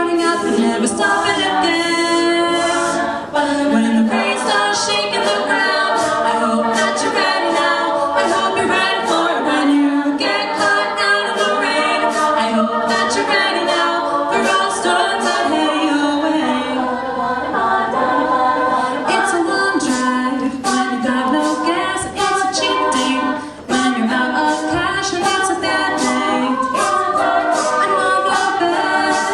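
Women's a cappella group singing a pop song in close harmony, voices only with no instruments, with short sharp percussive hits recurring throughout.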